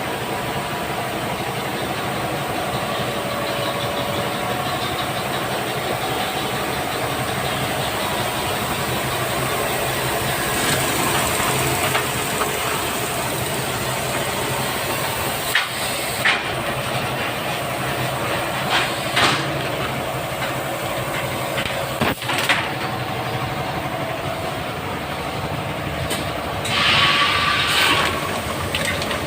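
Vacuum forming machine running: a steady mechanical hum and hiss, with a few sharp clicks and knocks in the second half and a loud burst of hissing air near the end.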